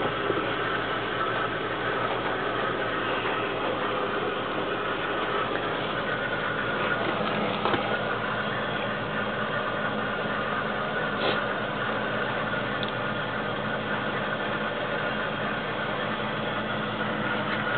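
A 1990 Ford F-250's 351 Windsor V8 idling steadily. There are a couple of short clicks, one about eight seconds in and another about three seconds later.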